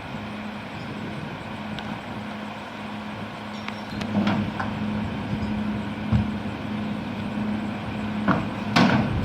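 Diesel garbage truck engine running steadily, with several sharp knocks and clanks, the loudest near the end.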